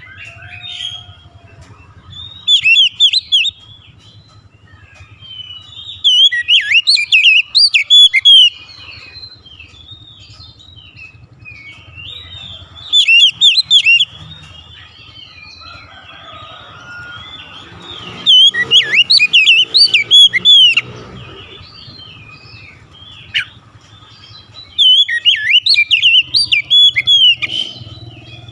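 Oriental magpie-robin (kacer) singing: five loud bursts of fast, varied whistled phrases a few seconds long, with quieter chirps and calls in between.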